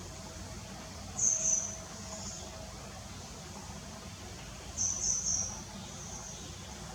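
Small bird chirping: short, high-pitched chirp phrases about a second in and again around five seconds in, over a low, steady background noise.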